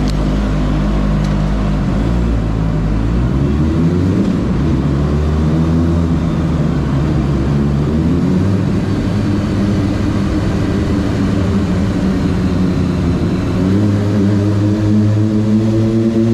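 Kawasaki ZX-25R motorcycle's four-cylinder engine under way, its pitch rising several times as the throttle opens and dropping back between, with the last and biggest rise near the end.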